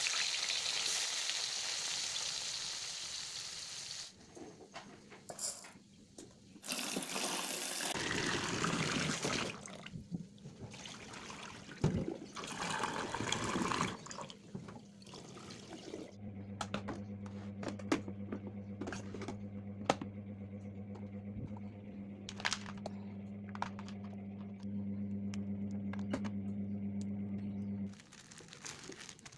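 Tempeh frying in hot oil in a wok, an even sizzle that stops about four seconds in. Then water poured and splashing from a pot into a stainless-steel sink in uneven gushes. For the last part there is a steady low hum with scattered light clicks and taps as the tempeh is handled on a wooden cutting board.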